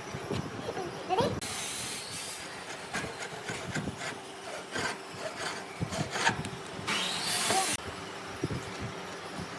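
Wood being worked by hand: rasping and sawing strokes on timber with scattered knocks. The sound changes abruptly twice, and there are a few short rising whines.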